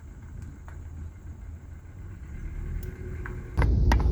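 Low rumble with a few faint clicks; about three and a half seconds in, a much louder low car rumble sets in suddenly and holds steady.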